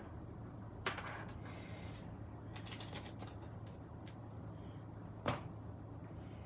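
Paper and cardstock being handled on a craft table: light rustles and taps, with a sharper tap about a second in and another about five seconds in, over a low steady hum.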